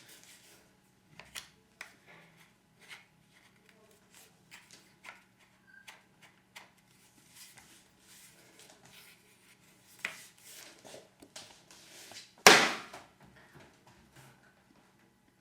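Scattered clicks and light knocks, like objects being handled in a small room, with one loud thump about twelve seconds in.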